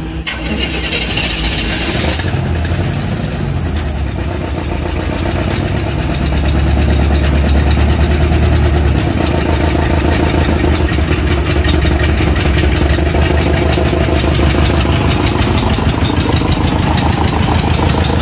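1986 Chevrolet Caprice engine being started and given gas, running in a way the owner calls terrible. A high squeal comes in about two seconds in and lasts a couple of seconds. The engine then runs louder and steadily from about six seconds in.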